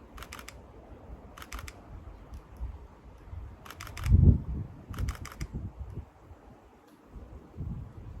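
Camera shutter firing in short bursts, four quick volleys of three or four clicks each, from the Sony A7IV mirrorless camera. A dull low thump about four seconds in is the loudest sound.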